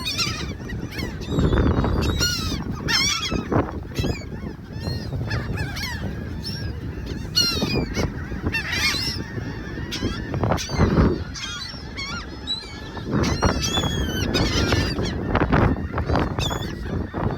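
A flock of seagulls calling: many short, harsh squawks overlapping one another, coming in clusters throughout, over a steady low background noise.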